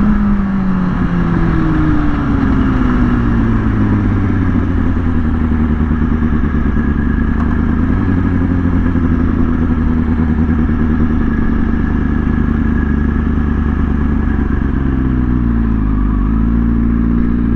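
Kawasaki ZX-6R sportbike's inline-four engine running. Its pitch falls over the first few seconds as the bike slows, then holds steady, with a brief dip and pick-up near the end.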